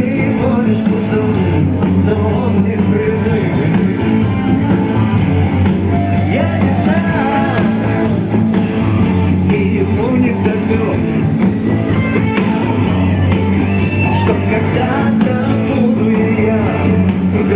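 Live rock band playing loudly and steadily, with electric guitar over a sustained bass line.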